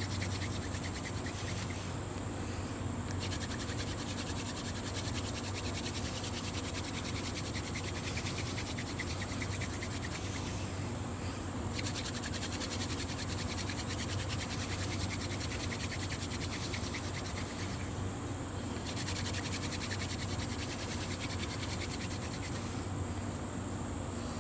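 Hand-drill friction fire: a mullein spindle spun back and forth between the palms, its tip grinding in the notch of a shortleaf pine fire board with a fast, steady scraping. It breaks off briefly about 2, 11, 18 and 23 seconds in, as the hands go back to the top of the spindle. This is the drilling that builds hot dust into an ember.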